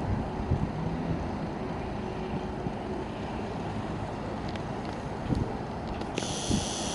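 Strong wind buffeting the microphone, a steady low rumble. About six seconds in, a high hissing sound joins it.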